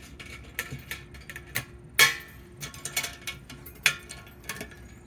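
Latch clips on a water distiller's pot lid being snapped shut: a string of sharp clicks and clanks, the loudest about two seconds in.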